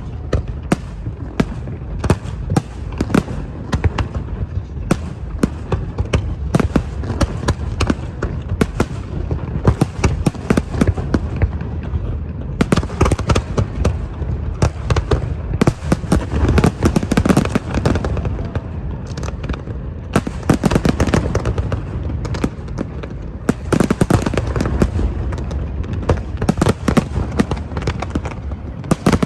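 Fireworks display: a dense, continuous barrage of bangs and crackles from many shells bursting in quick succession, over a low rumble.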